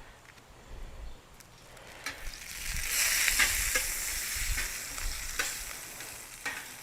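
Butter and oil sizzling on a hot griddle pan, the sizzle swelling about three seconds in, with a few light clicks.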